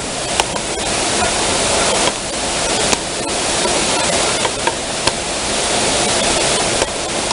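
Heavy rain pouring down as a dense, steady hiss, with sharp clicks every second or two.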